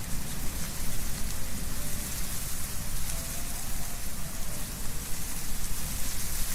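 Wind blowing through trees, rustling the leaves in a steady hiss over a gusting low rumble.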